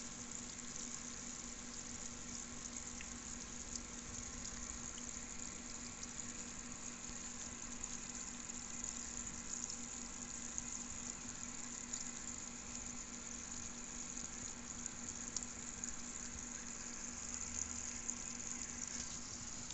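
Aquarium water fizzing steadily, like a filter or air stone bubbling, under a faint steady hum.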